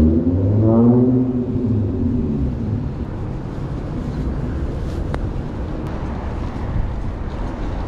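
Large motorcycle engine whose pitch drops over the first two seconds or so as it passes or eases off, followed by a steady low rush of traffic and wind.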